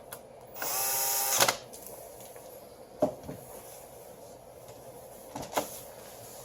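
Cordless electric screwdriver running briefly, spinning up and driving for under a second, followed by a few light clicks and knocks of parts being handled.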